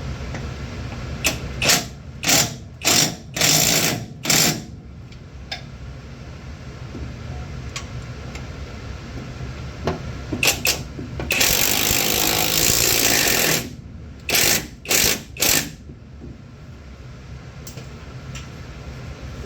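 Impact wrench driving the engine mount bolts home. It runs in short bursts: about six in the first few seconds, then two more, one longer run of about two seconds, and three quick bursts near the end.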